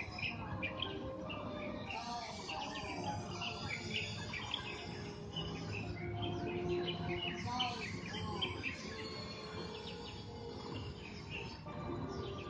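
Several birds chirping and calling over and over, short twittering notes and warbled phrases, above a steady low background hum.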